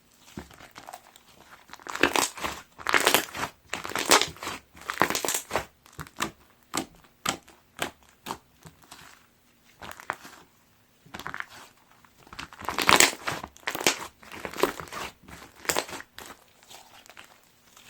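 Pink styrofoam-bead 'popcorn' slime being squeezed and pressed by hand, the foam beads crackling and crunching in dense bursts of clicks. The loudest spells come about two seconds in and again about twelve seconds in, with softer scattered crackles between.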